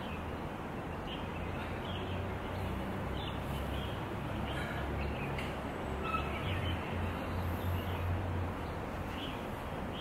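Birds chirping in short, scattered calls over a steady outdoor background hiss with a low rumble underneath.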